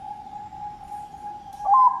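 Zebra dove (Bangkok perkutut) cooing: one long, steady held note, then about a second and a half in it breaks into the first of a run of quick, louder repeated coo notes.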